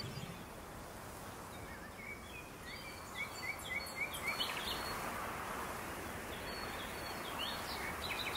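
Small birds calling over a steady outdoor hiss: a quick run of about five repeated chirps a couple of seconds in, then a few more short calls, the last ones near the end.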